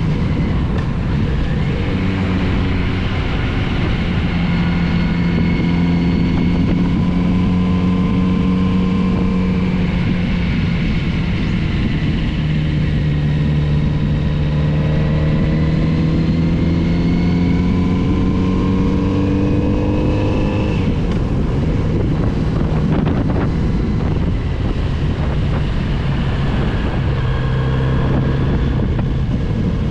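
Kawasaki Z900RS inline-four engine under way on a winding road. The engine note climbs steadily for several seconds, drops suddenly about two-thirds of the way in as the throttle is rolled off, then holds lower, with wind rush on the microphone.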